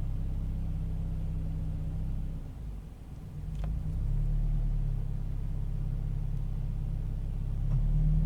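Toyota 86's flat-four boxer engine idling roughly. The note sags for about a second around three seconds in, then picks back up and steadies.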